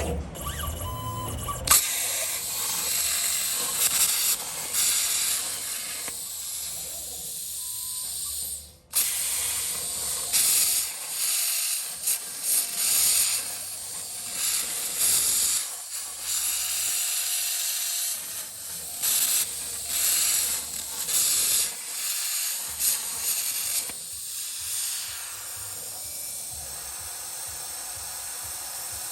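Plasma cutting torch (Hypertherm Powermax 125) on a CNC plasma table cutting metal: a loud, hissing arc and air rush that stops and restarts several times as cuts begin and end.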